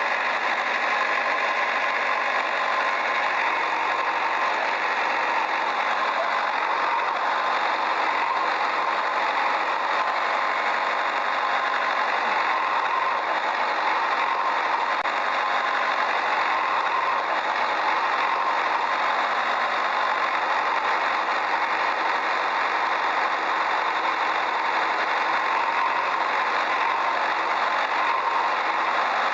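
A steady, unchanging engine-like running noise, mostly in the middle and upper range with little deep rumble.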